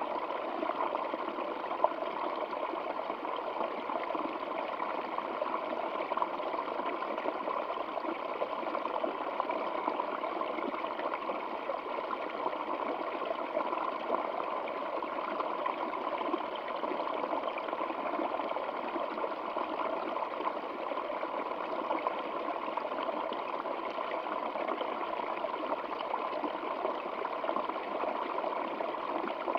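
A stream of water flowing steadily, an even, unbroken rush. One brief sharp click stands out about two seconds in.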